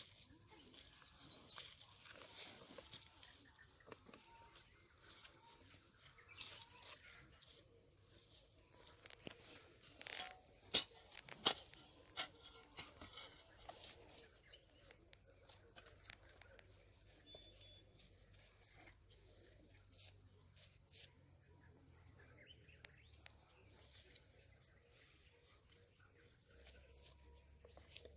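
An insect trilling steadily at a high pitch, with a few sharp knocks about ten to twelve seconds in.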